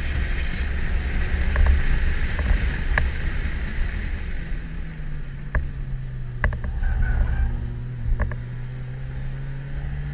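Mazda2's four-cylinder engine running under load, heard from inside the cabin over heavy road and tyre rumble, with scattered sharp clicks. About halfway through, the engine settles into a steady hum that slowly rises in pitch.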